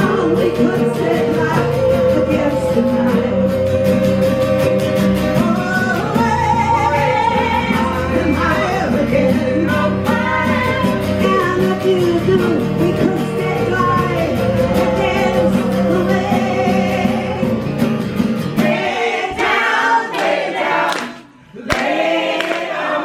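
Live band and a group of voices singing the gospel-style closing chorus of a folk-rock song. About nineteen seconds in the instruments stop, and after a brief break the voices carry on alone.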